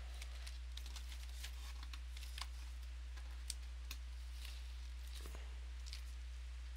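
Hands sorting and setting down sealed trading-card boxes: scattered light clicks and taps, over a steady low electrical hum.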